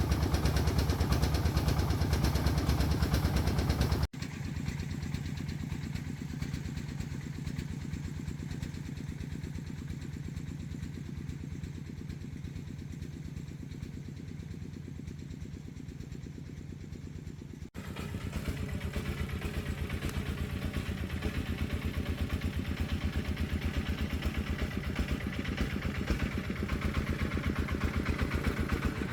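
Single-cylinder diesel engine of an agricultural logging truck running with a steady chugging beat. It turns abruptly quieter about four seconds in and louder again about eighteen seconds in.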